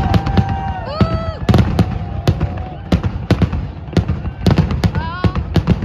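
Fireworks going off in rapid succession: a fast string of sharp bangs and cracks, several a second. A few pitched sliding tones rise over the bangs about a second in and again near the end.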